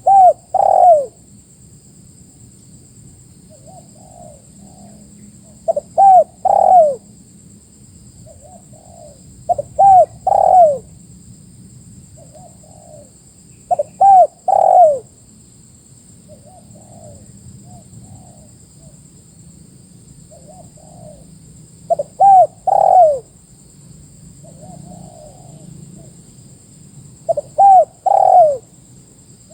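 Spotted dove (tekukur) cooing: six loud phrases, each a couple of short notes followed by two drawn-out arching coos, spaced about four to eight seconds apart, with fainter cooing in between from another dove.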